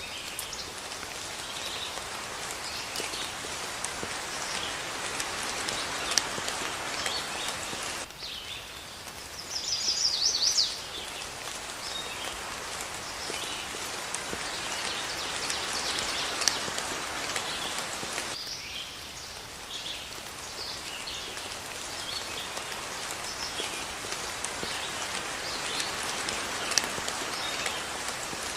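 Steady rain falling, with birds calling faintly now and then. About ten seconds in, a loud, rapid bird trill lasts a second or two.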